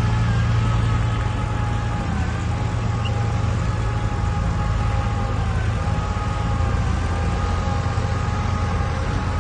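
Heavy diesel earthmoving machine running steadily under load, with a deep engine hum and a high, whining tone above it that dips briefly twice.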